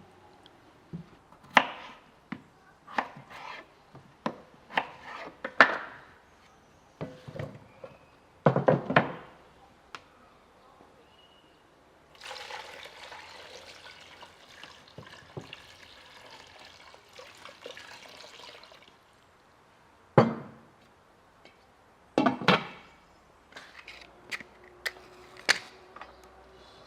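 Kitchen work sounds: scattered knocks and clatters of utensils and dishes, with about six seconds of liquid being poured a little under halfway through.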